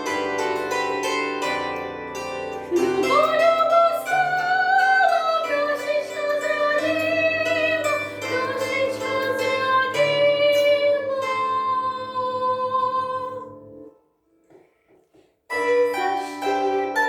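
A woman singing a sustained, vibrato phrase of an art song over an instrumental accompaniment of evenly repeated notes. The voice stops after about five seconds and the accompaniment plays on alone. Near the end the music breaks off into a second of silence, then starts again.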